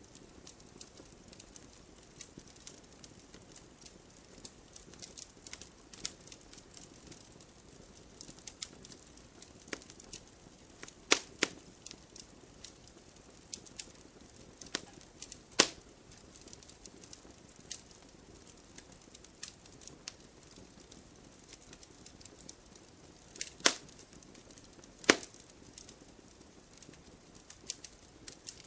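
Wood fire crackling: irregular small snaps and ticks over a soft low hiss, with a handful of louder, sharper pops spread through.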